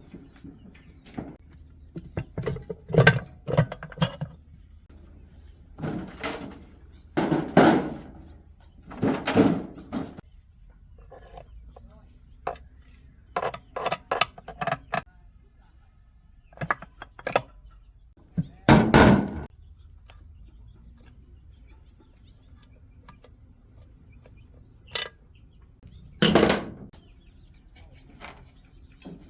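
Crickets chirring steadily and high-pitched in the background, with intermittent short knocks and clatters, about a dozen, the loudest around a third of the way in and again near two-thirds.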